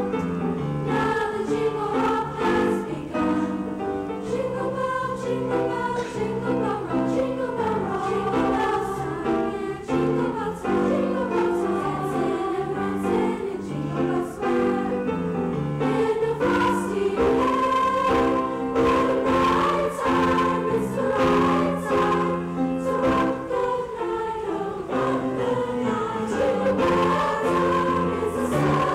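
Junior high school choir singing a multi-part piece, with sustained notes in several voices.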